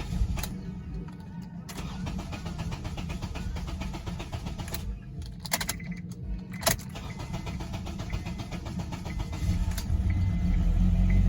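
Starter motor cranking the 2008 Honda Accord's 2.4-litre four-cylinder engine in a fast, even rhythm, with a few sharp clicks, without it starting; the low rumble grows louder near the end.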